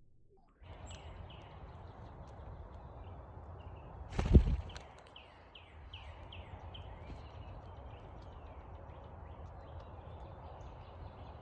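A small songbird gives a rapid series of short, high, falling chirps over a steady background of outdoor noise, with one loud thump about four seconds in.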